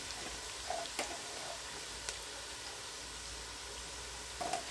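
Chopped onions and leek frying in hot oil in a pot: a steady sizzle, with a few faint clicks about a second in, about two seconds in, and near the end.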